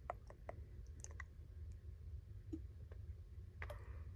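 A string of faint, irregular clicks, about a dozen of them and bunched in the first second and a half, over a low steady hum.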